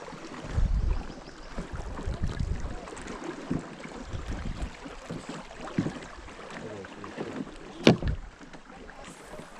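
Knocks and bumps in a small fishing boat, with low rumbling from handling or wind on the microphone. A single sharp click a little before the end is the loudest sound.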